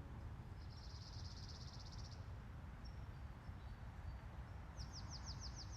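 Birds singing outdoors: a buzzy, evenly pulsed trill lasting about a second and a half, then a quick run of about six high, falling chirps near the end, over a steady low background noise.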